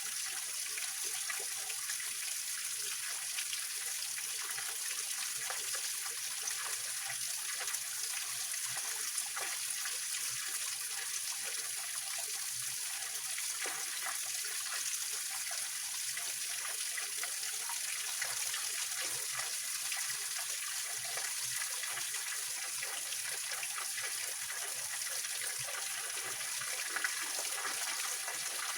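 Small waterfall on a mountain stream: water splashing and trickling over rocks, a steady bright hiss with small splashes.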